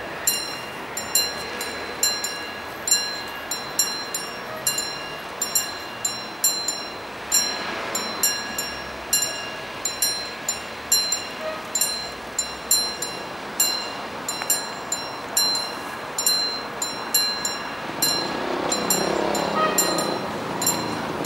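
Freight train wagons rolling past, their wheels clicking over the rail joints in a steady clickety-clack about two to three times a second. A louder, deeper rumble builds near the end.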